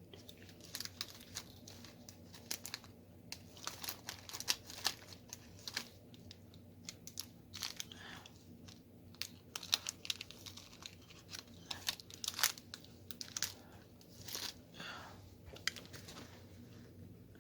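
Diamond painting close to the microphone: irregular small clicks and taps with plastic crinkling, as resin drills are picked up and pressed onto the canvas and its plastic cover film is handled.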